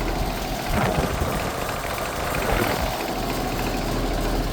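2010 York LX Series 5-ton heat pump outdoor unit running steadily in heat mode, a continuous mechanical hum and rush of noise that doesn't sound too great.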